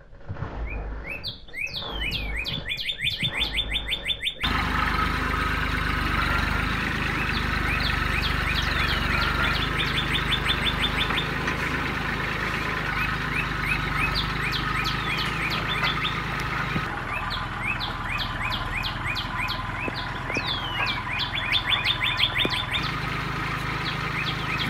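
Small birds chirping in quick series of short, falling chirps over a steady background hum. The background gets suddenly louder about four seconds in.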